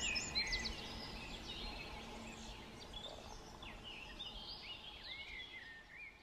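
Background forest ambience: faint scattered bird chirps and twitters over a soft hiss, fading out near the end.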